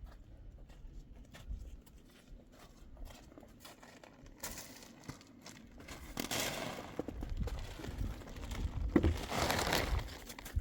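Rustling and crinkling with scattered light knocks, swelling louder twice: once around the middle and again near the end.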